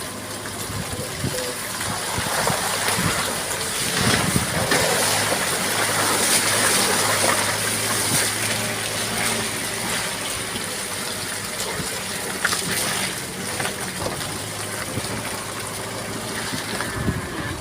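Steady rushing hiss of a vehicle driving on a wet, rough road in drizzle, tyres throwing up water, with a low engine hum underneath.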